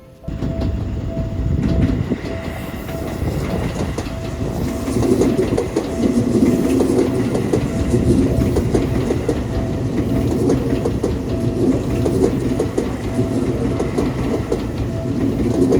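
A Seibu Railway electric train passing through a level crossing, its wheels clattering over the rail joints. Underneath, the crossing's electronic warning bell keeps up a steady repeating ring.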